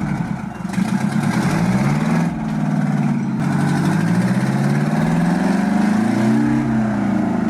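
Heavy diesel log truck engine working under load, its revs rising and falling repeatedly.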